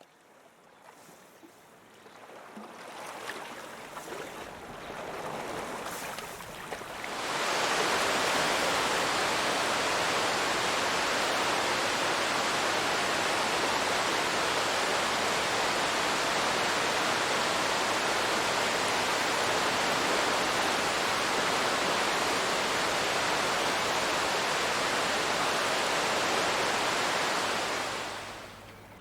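Waterfall: a steady rush of falling water. It builds over the first seconds, jumps suddenly louder about seven seconds in, holds even, and fades out near the end.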